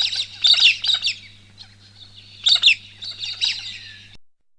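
Wild birds chirping and calling in several quick bursts of high twittering notes, cutting off suddenly about four seconds in.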